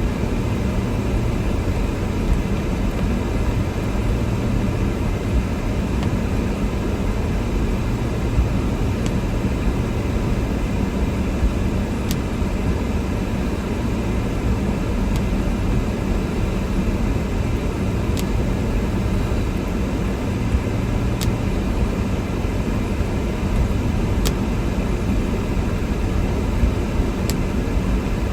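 Car driving: a steady low rumble of engine and road noise, with a faint click about every three seconds.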